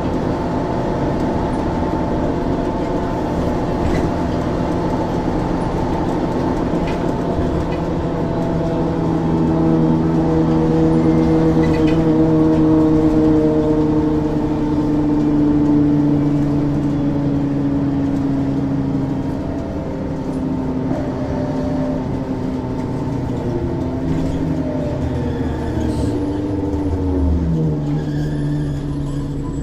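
Ikarus 435 articulated bus's diesel engine running under way, its pitch falling slowly through the middle and then dropping quickly near the end before holding steady.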